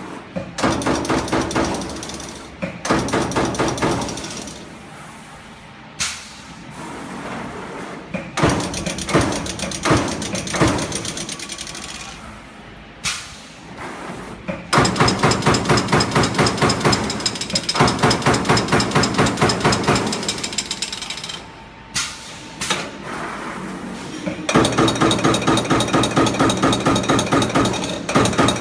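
CNC punching machine striking sheet metal in rapid runs of strokes, several a second. The runs are broken by short pauses, and the longest unbroken runs come in the second half.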